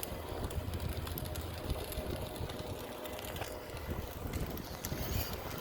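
A child's ride-on toy truck driving along: its small motor whirring steadily while the wheels roll and rattle over the ground.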